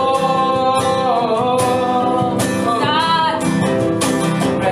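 Live Hindi worship music with acoustic guitar accompaniment: sustained sung notes between repetitions of the chorus, over a steady strummed beat.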